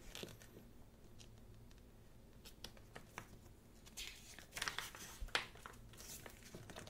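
Pages of a photo book being turned by hand: a series of short paper rustles and swishes, the loudest about two thirds of the way through.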